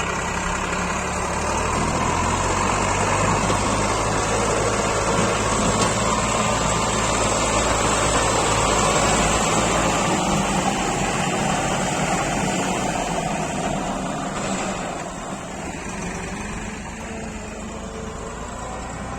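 Massey Ferguson tractor's diesel engine running under load, pulling a heavily loaded mud trolley; it grows louder a couple of seconds in and drops off after about fourteen seconds.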